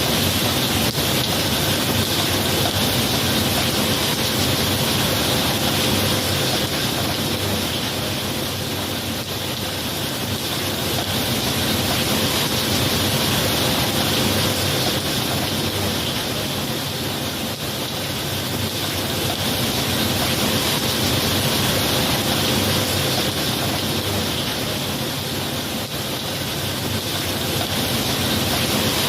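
Steady rain falling, an even hiss whose level slowly eases and swells back every eight seconds or so.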